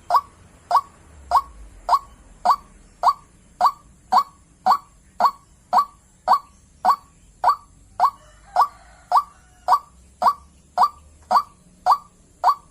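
White-breasted waterhen calling: a short, falling note repeated monotonously at an even pace, a little under two a second.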